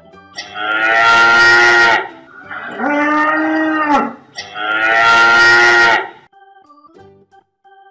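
Cow mooing three times, each call a long, drawn-out moo of about a second and a half. Faint keyboard music plays before the first moo and after the last.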